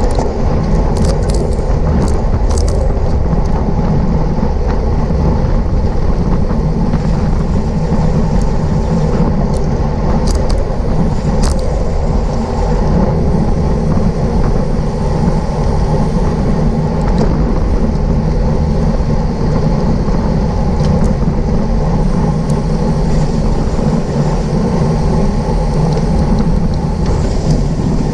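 Wind rushing over the microphone of a bike-mounted or rider-worn camera, with road and tyre noise from riding at race speed. A few sharp clicks come in the first seconds and again about ten seconds in.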